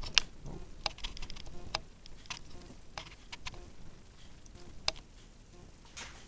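Irregular light clicks and taps from hands working equipment, about a dozen of them, with a sharper click near the start and another about five seconds in.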